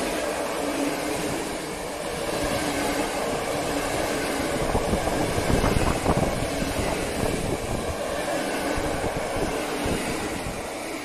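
Train of withdrawn passenger coaches on its way to scrap rolling past: a steady rumble of wheels on the rails, loudest around the middle with a clatter of wheels.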